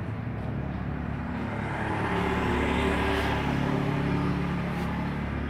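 A motor vehicle's engine running as it passes, growing louder toward the middle and then easing off.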